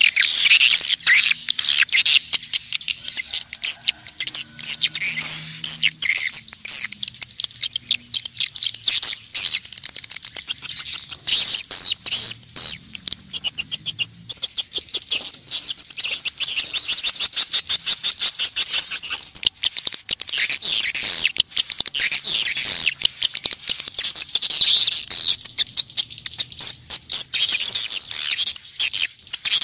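Swiftlets twittering: a loud, dense, unbroken chatter of rapid high chirps and trills. This is the swiftlet call used as a lure to draw swiftlets into nesting houses.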